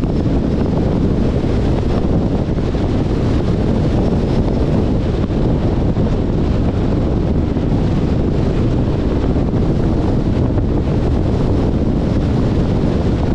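Steady wind rushing over the microphone of a camera on a moving 2021 Jeep Compass, with a constant low rumble from the car on the road.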